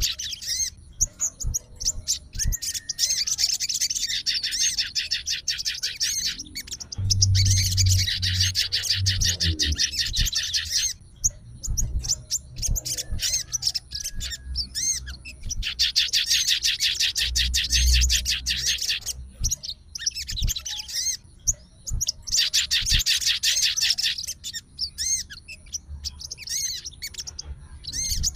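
A sogon songbird singing in long phrases of rapid, high-pitched chattering notes, each a few seconds long, with short pauses between them. Dull low thumps sound under the song about a third of the way in and again past the middle.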